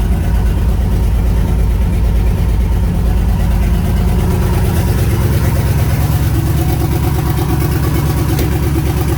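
Twin-turbo LS-swapped V8 in a 1988 Pontiac Trans Am idling steadily, a continuous low pulsing engine note.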